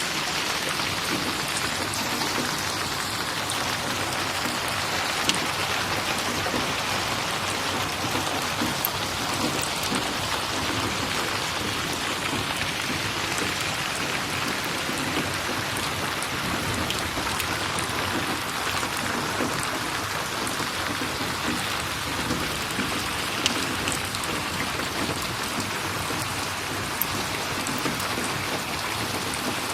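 Steady, dense rainfall with scattered sharp ticks.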